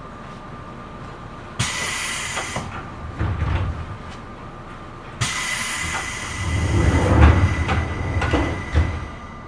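Sound inside a Seibu New 2000 series electric train carriage: a low running noise broken by two sudden bursts of hissing, the first briefly about a second and a half in, the second longer from about five seconds in, each with low rumbling and a few knocks under it.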